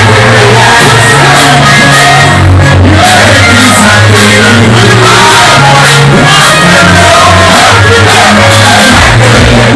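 Live afro-dancehall music played very loud over a sound system, with a steady heavy bass line, and a crowd shouting and singing along.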